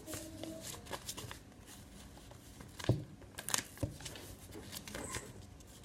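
A sheet of paper being folded and creased by hand: soft rustling with a few sharp crackles of the paper, the loudest about three seconds in.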